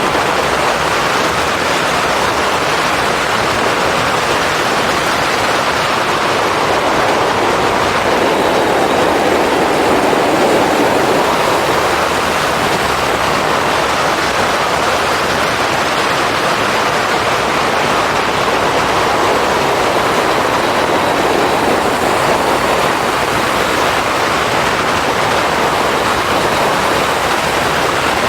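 Steady, loud wind rush over the camera's microphone on a moving motorcycle, with the bike's engine buried beneath it.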